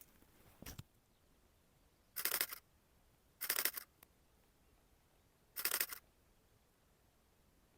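Canon R7 camera shutter firing in rapid bursts: three bursts of quick clicks, each about half a second long, with a shorter, softer one near the start.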